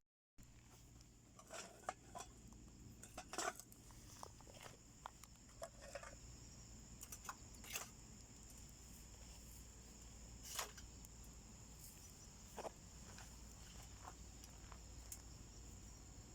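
Wood fire crackling faintly in a homemade wood stove, with scattered sharp pops, the loudest about three and a half and ten and a half seconds in, over the steady high trilling of crickets.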